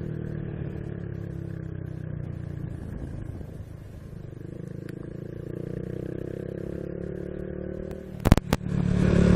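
Honda Biz 125's single-cylinder four-stroke engine running under way, a steady hum that dips slightly in pitch and then rises again. About eight seconds in come two sharp knocks, followed by a louder rush of noise.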